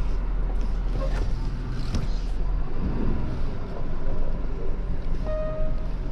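Vehicle engine running steadily with a low rumble, with a short high tone about five seconds in.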